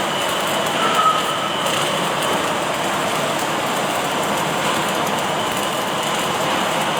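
Automatic arc-welding machine running with the steady noisy hiss of the arc amid factory din, a faint high tone briefly standing out about a second in.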